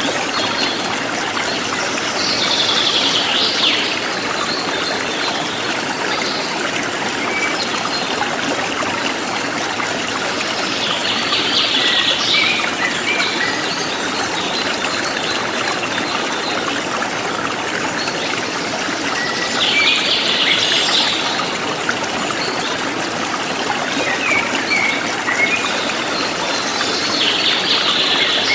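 A forest stream flowing with a steady rush, while a bird sings a short, high phrase four times, about every eight seconds.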